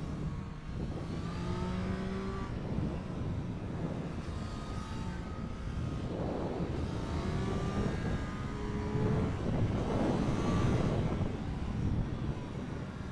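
Triumph Street Triple 765 RS's inline three-cylinder engine under hard acceleration. The pitch climbs again and again with short breaks between the climbs as it goes up through the gears, and it is loudest near the end.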